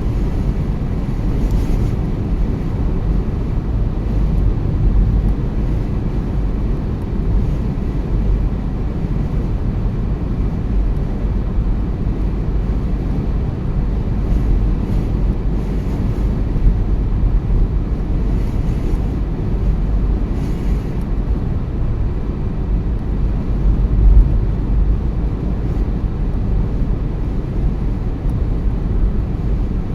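Steady low rumble of a car driving, with road and engine noise heard from inside the cabin, and a few faint, brief hissing swells.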